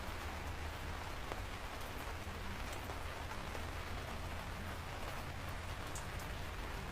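Steady rain falling, with fine scattered drop ticks over an even hiss and a low steady rumble underneath.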